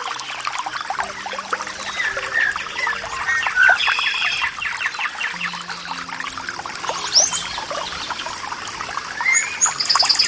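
Small birds chirping and whistling in short phrases over trickling, splashing stream water, with a burst of rapid high trills near the end.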